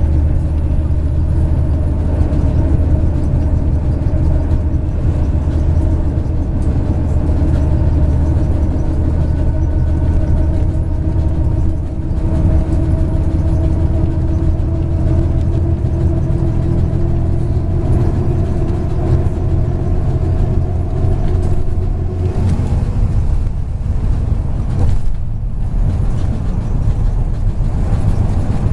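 MAZ 103 bus engine running under way, heard aboard with road noise. Its pitch rises slowly as the bus gathers speed, then drops about three-quarters of the way through as the engine lets off.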